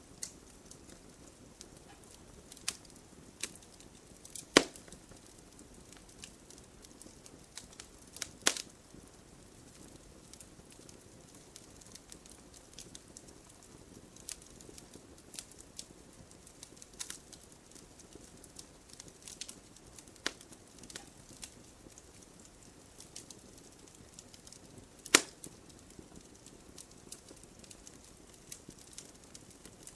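Wood campfire crackling: a soft steady hiss with frequent irregular small snaps, and three loud sharp pops, the first about four and a half seconds in and the last near twenty-five seconds.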